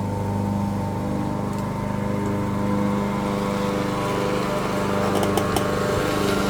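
Lawn mower engine running steadily nearby, with a few light clicks about five seconds in.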